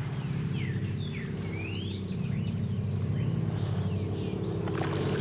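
Birds chirping, a scatter of short calls sliding up and down in pitch, over a low steady drone.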